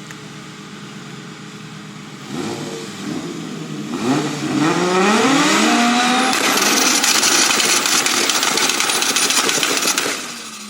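Modified performance car engine idling, then revved up twice and held at very high revs, very loud, for about five seconds before dropping back near the end.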